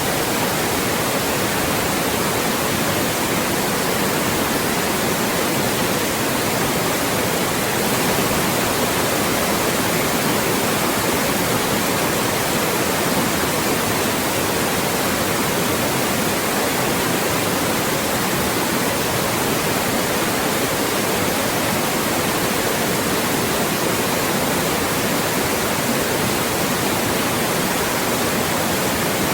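Loud white noise: a steady, unbroken hiss across the whole range of pitch, without change.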